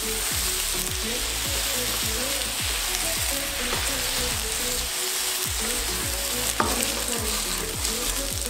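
Chicken strips and chopped garlic sizzling in hot olive oil in a non-stick wok while being stirred and tossed with a wooden spatula, a steady hiss with one sharp knock about two-thirds of the way through.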